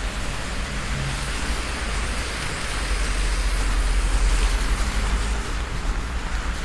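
Heavy rain pouring down in a steady rushing hiss, with a strong low rumble underneath that swells a little midway.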